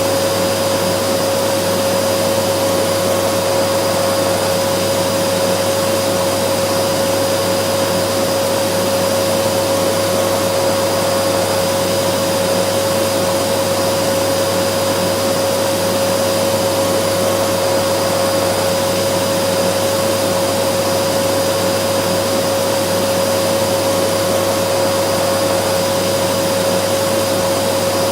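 Vacuum cleaner running steadily, a constant rushing hiss of air with a steady whine, unchanging throughout.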